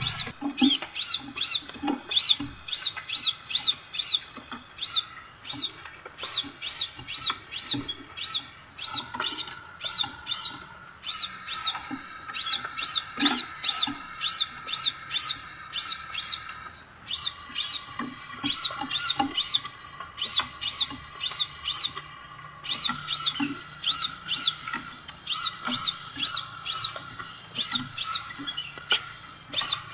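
Scarlet minivet song: a long run of short, sharp, high whistled chirps, about three a second, broken by a few brief pauses. A fainter steady high hum of other birds or insects runs underneath.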